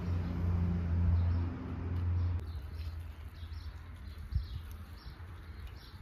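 Small birds chirping, short high chirps repeating every half second or so. For the first two seconds a low steady hum sits under them, then cuts off suddenly.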